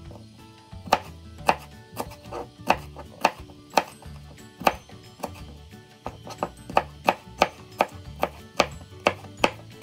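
Kitchen knife dicing yellow bell pepper on a plastic cutting board: a string of sharp knocks of the blade on the board, about two a second, quickening to about three a second in the second half.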